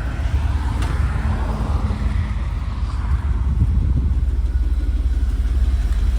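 GMT400-series pickup truck engine running through a newly installed muffler: a quiet, steady low exhaust rumble, a little louder from about halfway through.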